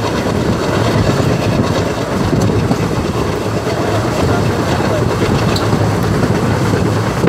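Passenger train running along the track, heard from inside a carriage: a steady, loud rumble of wheels on rails.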